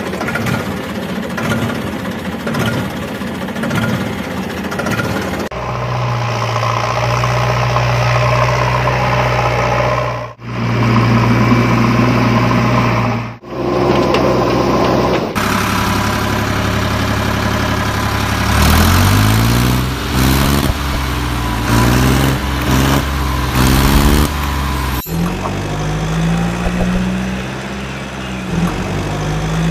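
Vehicle engine sounds in several cut-together clips: a steady engine drone, then an engine revving up again and again with rising pitch.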